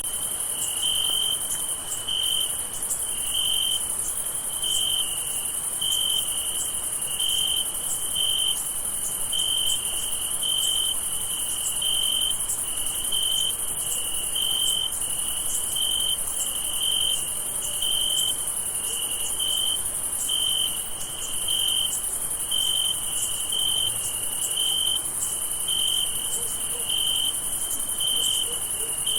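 Crickets at night: one chirps in an even, steady rhythm, about one and a half chirps a second, over a continuous high-pitched trill from other insects.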